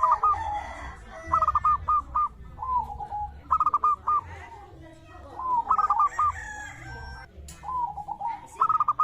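Zebra dove (perkutut) cooing: phrases of quick, clipped notes, repeated every one to two seconds, some lower phrases dropping in pitch.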